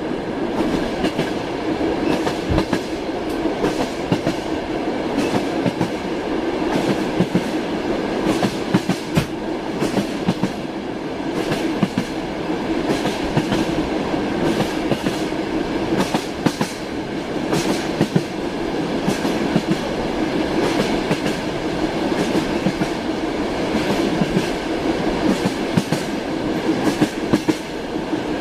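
Train wheels clattering on the rails: scattered sharp clicks over a continuous rumble of a moving train.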